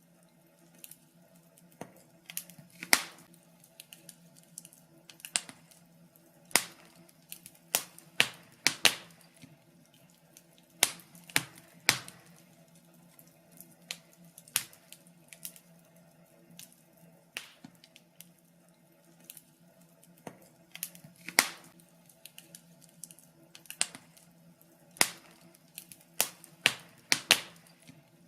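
Wood fire crackling: irregular sharp pops and snaps, a few of them loud, over a faint steady low hum.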